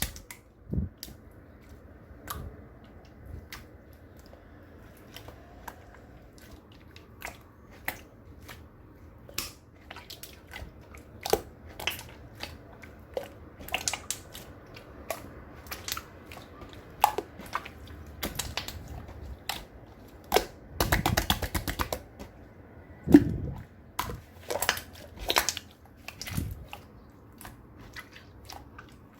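Clear slime being handled, giving irregular sharp clicks and pops with a dense run of crackling about two thirds of the way through.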